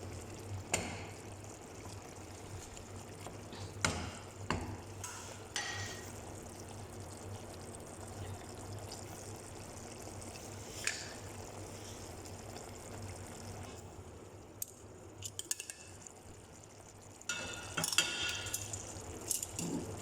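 Chicken adobo simmering in a pot, a steady bubbling hiss, with a few sharp clinks and knocks of a utensil against the pot and a busier clatter near the end.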